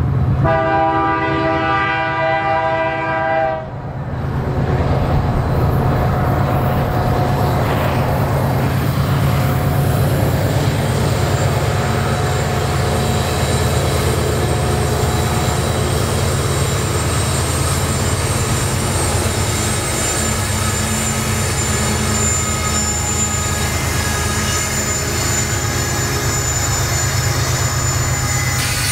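Canadian Pacific freight train's multi-chime air horn sounds one chord of about three seconds. The locomotives and cars then roll past with a heavy, steady rumble. A thin high wheel squeal creeps in over the last several seconds.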